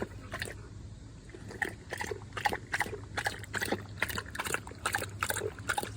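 Small splashes and sloshing in shallow pool water, short irregular strokes about two or three a second that grow busier after the first couple of seconds.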